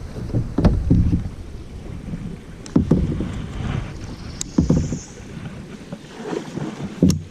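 Kayak on the move: several paddle strokes, each a sudden thud or knock, mostly coming in pairs, over a steady noise of wind and water.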